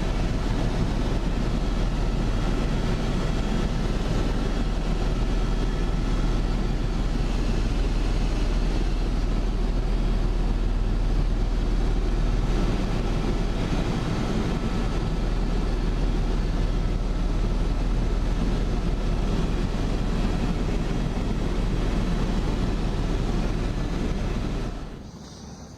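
Steady, loud engine and rotor drone of a helicopter heard from inside the cabin, with a deep low rumble. It cuts off sharply about a second before the end.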